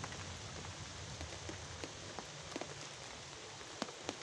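Rain falling steadily, an even hiss with scattered single drops ticking close by, a couple of them sharper near the end.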